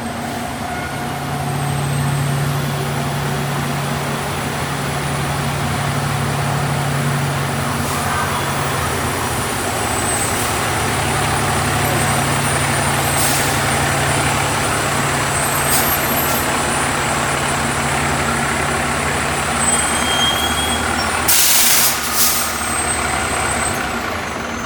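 Fire truck's diesel engine running steadily as the truck pulls slowly into the bay, with a loud hiss of its air brakes near the end, in two short bursts.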